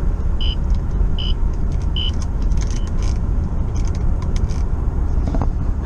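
Steady low rumble of a vehicle driving, with three short high chirps in the first two seconds and a scattering of light clicks in the middle.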